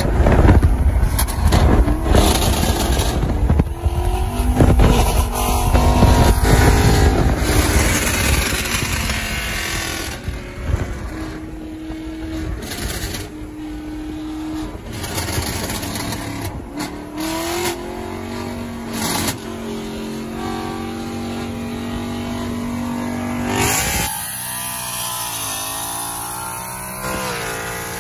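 Car engines accelerating on a highway, their note climbing, holding steady at speed, then climbing again, over road and wind rumble heard from inside a moving car. Near the end the low rumble drops away suddenly.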